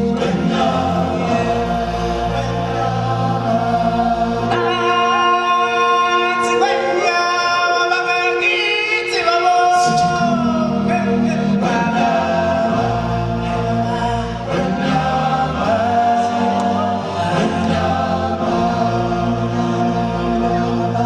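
Choir singing over sustained musical backing, with a low bass line. A voice holds and slides between high notes in the middle.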